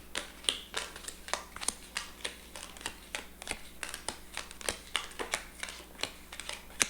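Deck of playing cards being shuffled by hand: a quick, uneven run of sharp card clicks, about four or five a second.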